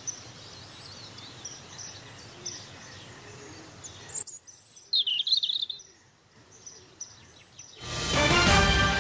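Outdoor nature ambience with birds chirping over a steady background hiss, a louder run of chirps about five seconds in. Music comes in loudly near the end.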